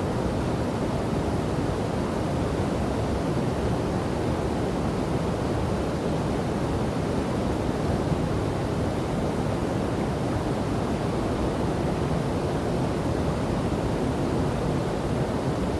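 River and waterfall water rushing in a steady, deep, even roar that does not change.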